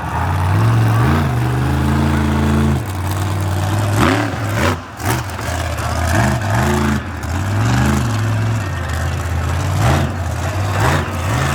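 Monster truck engine running loud, steady at first, then revved repeatedly in quick blips with its pitch rising and falling several times.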